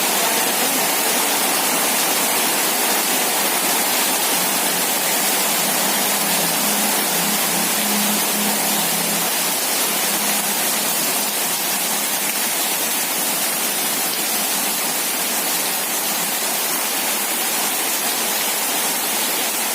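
Heavy rain pouring down steadily, a dense even hiss of water with no letup.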